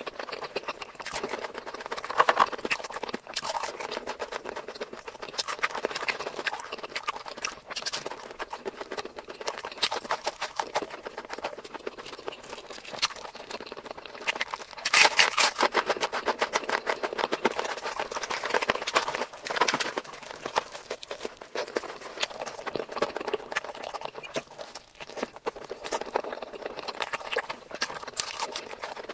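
Close-miked eating sounds: rapid chewing and mouth clicks as someone eats spicy meat dishes, steady throughout with a louder, busier stretch about halfway through.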